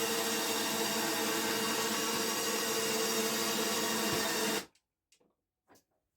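An electric motor running steadily with an even whine, then cutting off abruptly about four and a half seconds in.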